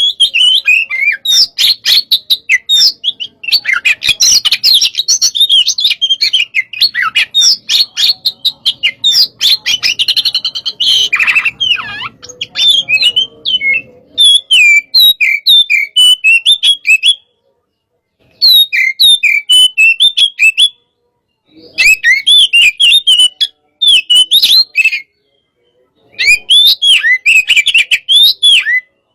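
Oriental magpie-robin (kacer) singing loudly in fast, varied phrases of whistles and chirps: the aggressive 'hot-type' song birdkeepers play to train other birds. In the second half the song breaks off into complete silence a few times.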